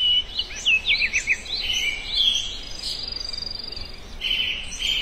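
Small songbirds chirping: quick whistled notes that slide up and down, with a fast high trill about three seconds in.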